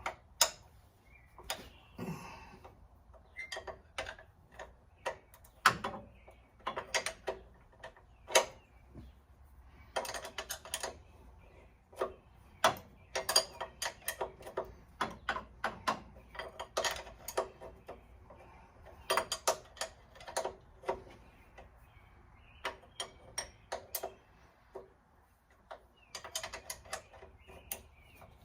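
Ratchet wrench clicking in short quick runs on engine bolts, mixed with single metal clinks and knocks from tools and parts.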